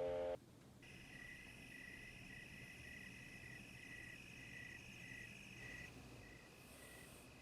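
Faint insect chirping: a pulsing chirp about twice a second over a steady high trill. The tail of piano music cuts off about half a second in.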